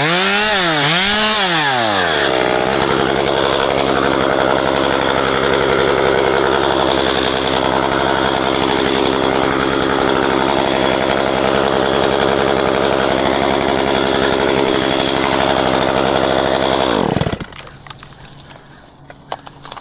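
Gasoline chainsaw revved up and down about three times, then held at high speed running steadily; near the end it drops in pitch and shuts off.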